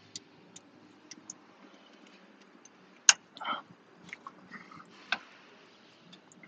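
Scattered small clicks and taps of hand tools being handled during the oil change, with one sharp knock about three seconds in and a brief scuffing noise just after it.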